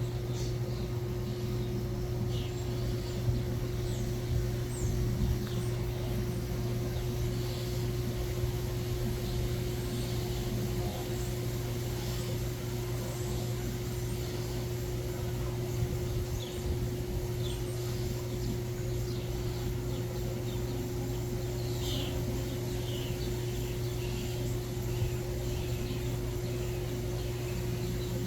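Small birds chirping on and off, short high notes that drop quickly in pitch, scattered through the stretch over a steady low hum.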